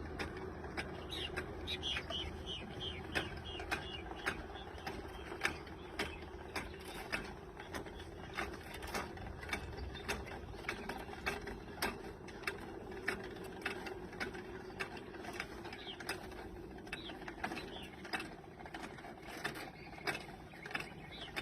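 Ratcheting winch or pulley mechanism on a purple martin house pole, clicking irregularly a few times a second as the house is lowered to check the eggs.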